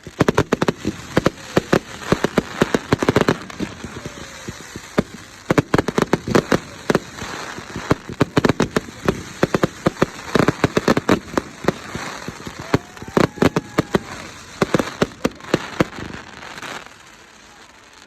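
Fireworks going off: rapid, crackling bangs in dense volleys, one cluster after another, with a few short lulls between them.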